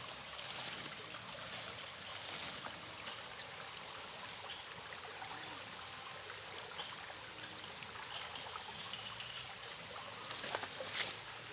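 A steady, rapidly pulsing high insect trill over trickling, splashing water, with a few sharp clicks and rustles, more of them near the end.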